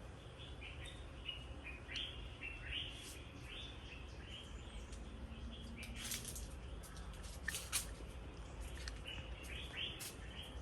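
Wild birds chirping: runs of short, quick, downward-sliding chirps repeated several times, with a few sharper, higher notes in the middle, over a steady low rumble.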